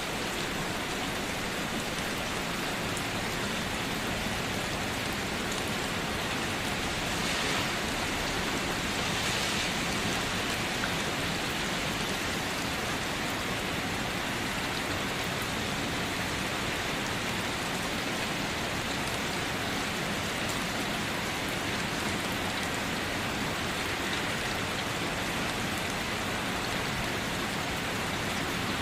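Steady rainfall, an even hiss of drops on a surface, swelling slightly a few seconds in.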